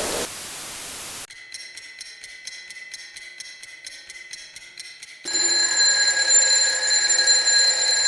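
A second of radio static hiss gives way to electronic telephone sounds. First comes a fast pulsing electronic tone, about five pulses a second, for about four seconds. Then a louder steady electronic tone with several pitches cuts in.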